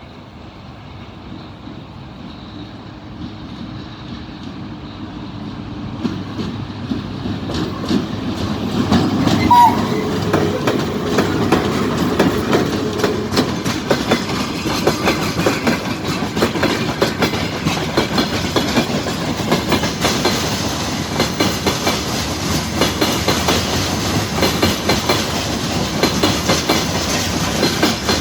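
Freight train approaching and growing louder over the first ten seconds, then its wagons rolling past with a steady clickety-clack of wheels over rail joints. A brief high tone sounds about ten seconds in.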